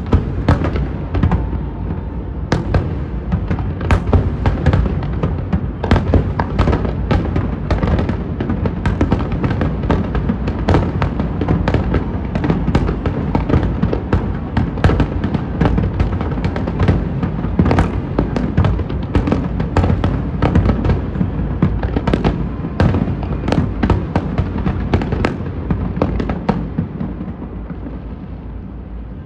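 Fireworks display at its height: a dense barrage of overlapping bangs and crackles, thinning out and fading near the end.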